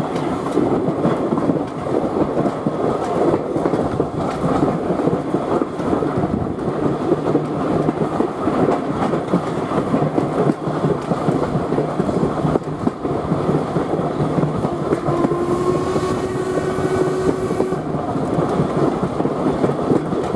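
Steam train hauled by LMS Ivatt 2-6-2 tank engine 41298 running along the line: a steady rumble and clatter of the carriage wheels on the rails. A thin steady tone sounds for about three seconds near the end.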